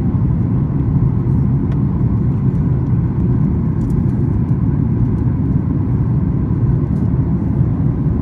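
Cabin noise inside a Boeing 737-8 MAX airliner: a steady low rumble of engines and rushing air, unchanging throughout.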